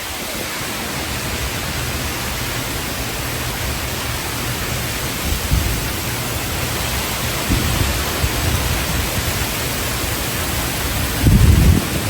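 Typhoon wind and heavy rain: a steady hiss of driving rain, with low rumbling gusts of wind buffeting the microphone a few times, the loudest near the end.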